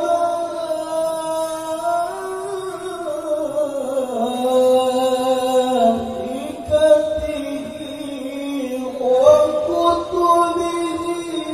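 A male qari reciting the Qur'an in a high, chanted voice, holding long ornamented notes whose pitch slides and steps. The melody sinks through the middle and climbs higher again near the end.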